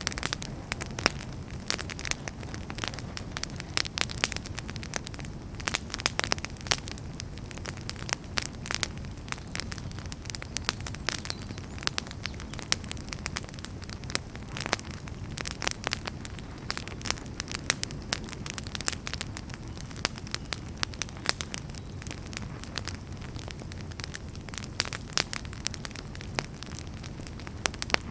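Campfire burning, wood crackling with frequent sharp pops over a steady low rumble of the flames.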